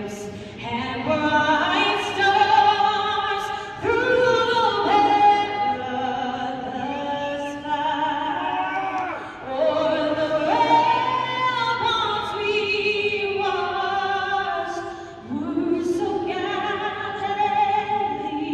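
A solo singer sings slow phrases of long held notes with vibrato, amplified in an arena, with short breaks between phrases.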